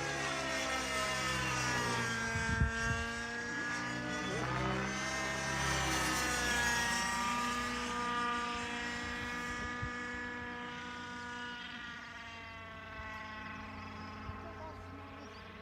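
Engine-powered radio-controlled helicopter flying, its engine and rotor note sweeping up and down in pitch as it manoeuvres, then growing fainter over the last few seconds.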